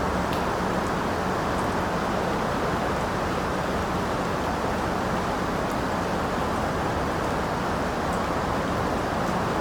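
Steady rain noise, an even, dense wash heaviest in the lower and middle range, with a few faint light ticks of drops.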